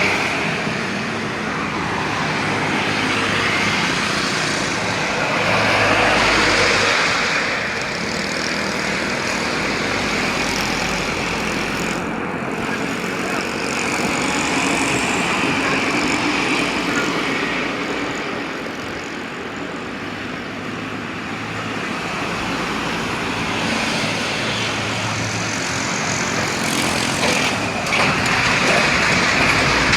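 Mitsubishi Canter truck driving on a road: its engine running under a steady rush of tyre and road noise that swells and fades in level.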